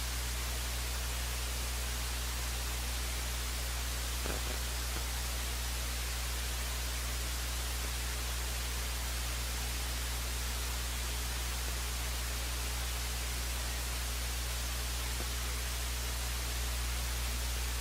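Steady hiss with a low, constant electrical hum underneath: the empty audio feed during a broadcast break. A faint tick comes about four seconds in.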